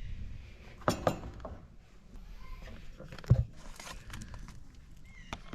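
Clicks and knocks of food containers and utensils being handled, with the sharpest knocks about a second in and a little after three seconds.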